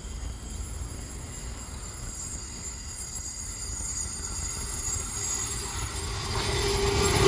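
Electric suburban train running on the line, its low rumble dropping away about two seconds in. Near the end a train draws near again, growing louder with a steady whine over a rising hiss.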